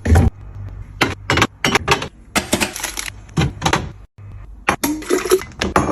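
Quick, irregular clinks and knocks of containers being handled and set down while a fridge is restocked.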